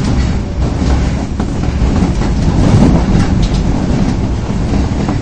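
Osaka Metro Tanimachi Line subway train running between stations, heard from inside the car: a steady, loud rumble of wheels and motors with faint rail-joint clicks.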